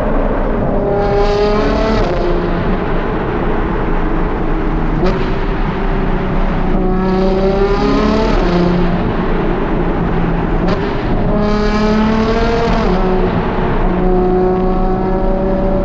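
Ferrari Purosangue's naturally aspirated V12 through a Novitec race exhaust, accelerating hard. Its pitch climbs steeply and then drops back at each of about three upshifts, settling into a steadier drone between them.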